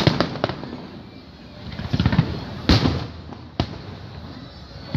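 Fireworks display bursting: a series of sharp bangs, three in quick succession at the start, a cluster about two seconds in, the loudest just before three seconds and one more past three and a half.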